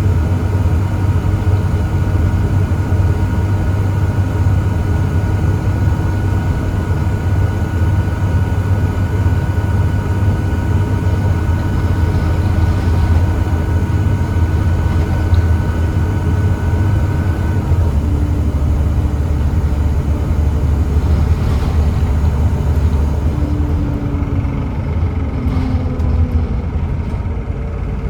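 Volvo D7C 7.3-litre diesel engine of a Volvo B7TL double-decker bus running under way, a steady deep drone with a thin whine above it. About two-thirds of the way through the whine stops and the drone drops lower, and short falling tones follow near the end.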